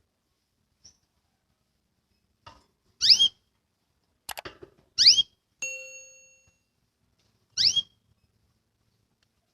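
Domestic canary giving three short rising chirp calls, a couple of seconds apart. Between them come a few quick clicks and a short metallic ding that fades over about a second.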